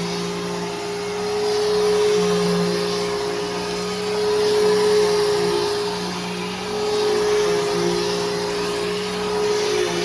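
Bissell Powerforce Helix Turbo upright vacuum running, its motor giving a steady whine over a rushing airflow, with the sound swelling and fading every couple of seconds. The machine is freshly refurbished with a new brushroll and belt.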